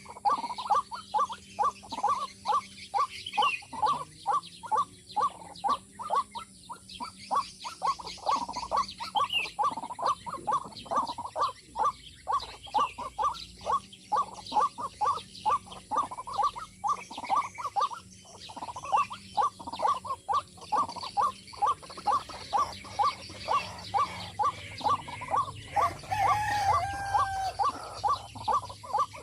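Watercock calling: a long, even series of short clucking notes, two or three a second, with a few brief pauses and a different, falling call near the end.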